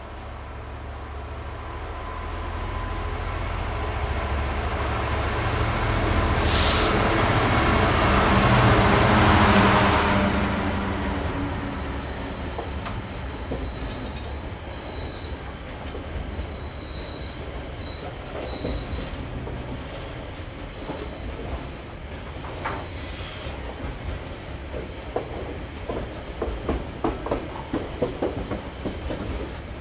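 Class 66 diesel locomotive's two-stroke V12 engine growing louder as it approaches and passes, loudest about nine seconds in. Then loaded waste container wagons roll by, with a faint high wheel squeal midway and a quick rhythmic clickety-clack of wheels over rail joints near the end.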